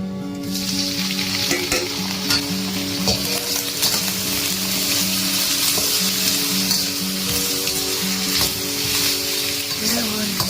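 Freshly picked bamboo shoots sizzling as they are stir-fried in a hot pan, with a steady hiss and a few stirring strokes. Background music plays along with it.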